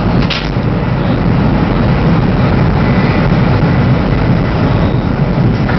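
Steady low rumble and rush of a high-speed train running at speed, heard from inside the passenger car.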